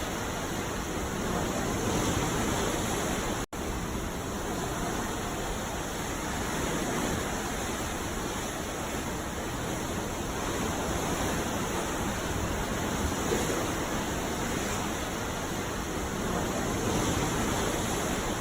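Ocean surf: a steady wash of breaking waves that swells gently and cuts out for an instant about three and a half seconds in.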